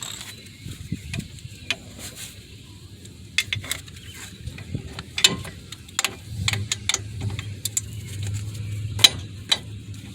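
Socket ratchet working a stiff front brake caliper bolt, giving irregular sharp metal clicks and clinks.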